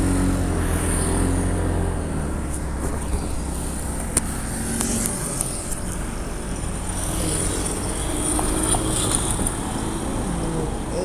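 Steady motor-vehicle noise: a low engine hum and road rumble, with a few faint clicks.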